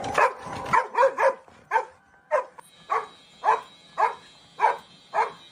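Dog barking over and over: a quick run of barks at first, then single barks evenly spaced about two a second.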